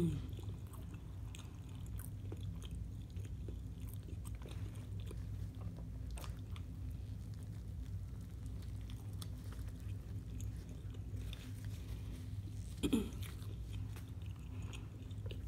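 Close-miked biting and chewing of a shrimp po' boy on French bread: wet chewing with scattered small crunches from the bread crust and breaded shrimp, whose air-fried coating is not a hard crunch. A brief hummed 'mmm' comes near the end.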